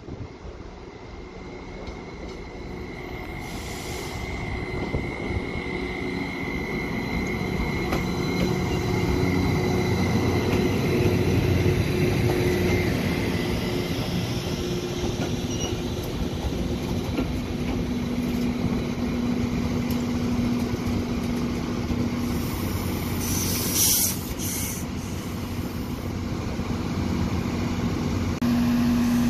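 Network Rail rail-grinding train passing close by, its diesel engines running and wheels rolling over the rails, growing louder over the first ten seconds as it approaches. A thin high wheel squeal sounds through the first half. A steady low engine hum builds in the second half and is strongest near the end as the grinder's power car goes by.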